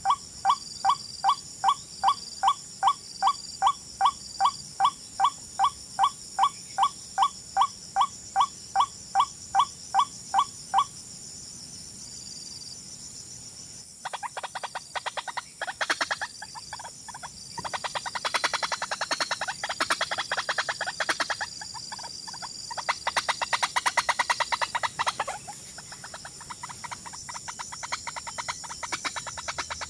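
Bird calls. A loud call is repeated evenly, about three times a second, then stops about eleven seconds in. After a short pause comes a faster, denser chattering that rises and falls in bouts. A steady thin high-pitched whine runs underneath.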